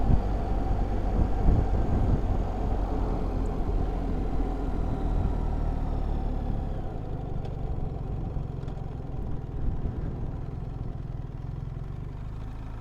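BMW R1300GS boxer-twin engine running on the move, heard under wind rush on the rider's microphone. The rushing noise and overall level die down through the second half while a low engine drone carries on.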